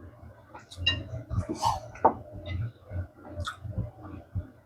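Close-miked eating sounds from someone eating japchae rice and rice-cake dumpling soup: irregular chewing with wet mouth clicks and soft smacks.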